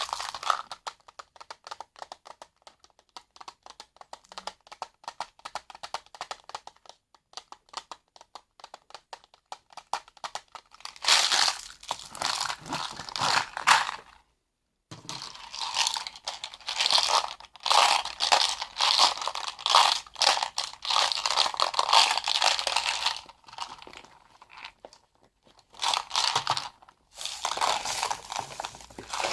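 Close-up crinkling and crunching handling sounds: about ten seconds of fine rapid clicking, then several loud spells of crinkling separated by short pauses.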